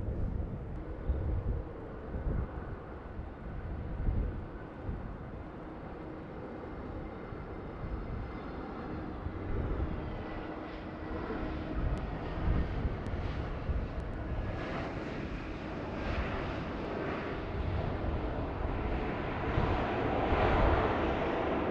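Jet airliner engines passing overhead, building louder toward the end, with a whine that falls in pitch about ten seconds in. Strong wind gusts buffet the microphone throughout.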